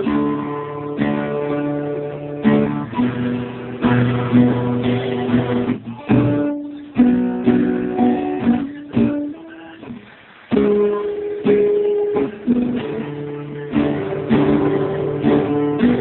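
Acoustic guitar strumming chords in an instrumental interlude of a song. The playing thins to a quieter, sparser passage in the middle and full strummed chords come back about ten seconds in.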